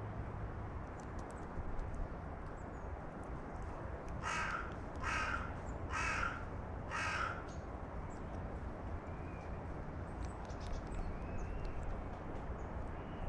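Carrion crow cawing four times, about a second apart, over a steady low outdoor rumble.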